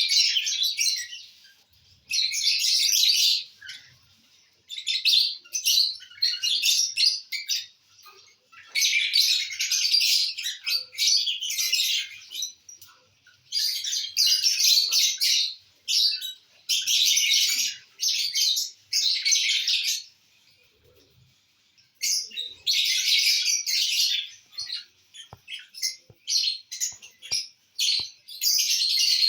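Pet lovebirds chattering in bursts of shrill chirps, a second or two at a time with short pauses between.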